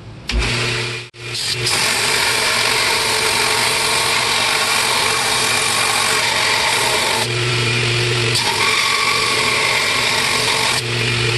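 Electric grinder grinding the steel head of a forged chipping hammer to clean it up and put an edge on it. It starts about a quarter second in, cuts out for an instant about a second in, then runs steadily.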